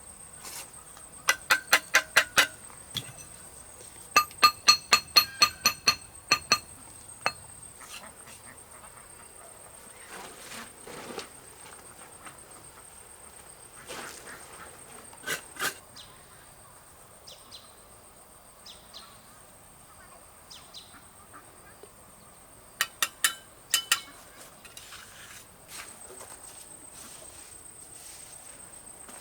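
Crickets trilling steadily, with runs of sharp, ringing tool strikes from building work: a burst of about six quick blows early on, a longer run of about eight a few seconds in, a pair midway, and a quick cluster near the end.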